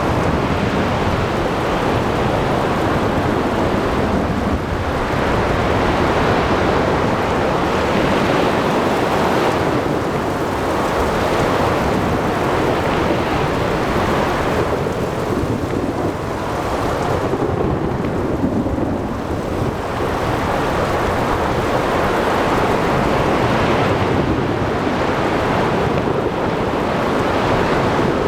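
Ocean thunderstorm: heavy rain and wind with surf surging in slow swells every few seconds over a continuous low rumble of thunder.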